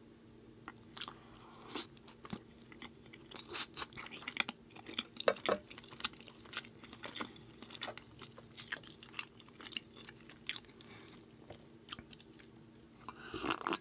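Close-miked chewing of a dry, crunchy chocolate chip cookie: irregular crisp crackles and crunches.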